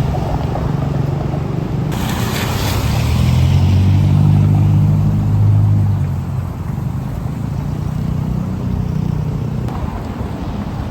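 Road traffic: a large vehicle's engine drones, swelling to its loudest around the middle as it passes and then easing off. A short burst of hiss comes about two seconds in.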